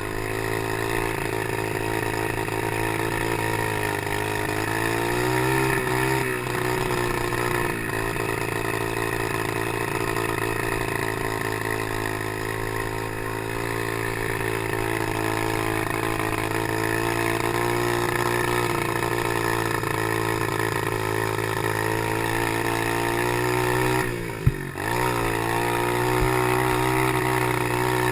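Small Chinese PY90 motorcycle engine running under way, its pitch rising and falling with the throttle. Near the end the engine note dips sharply with a single loud knock, then picks back up.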